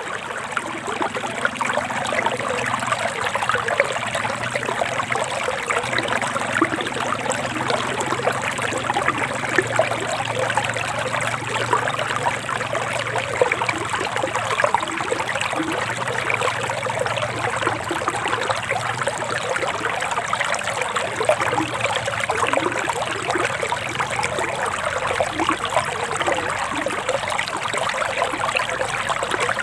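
Shallow forest stream flowing and trickling over rocks, a steady babble of running water.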